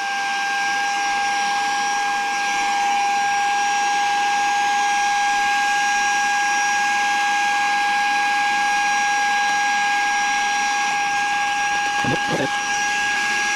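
Saker 3-in-1 handheld cordless vacuum's brushless motor running steadily on its low setting: a high, even whine over a hiss of air drawn through the floor nozzle, with a brief rattle near the end.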